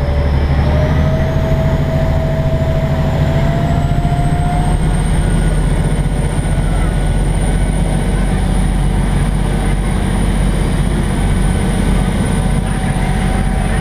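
Engine of a Chao Phraya river taxi boat running loudly and steadily, with a thin whine that rises in pitch over the first few seconds as the engine revs up, then holds.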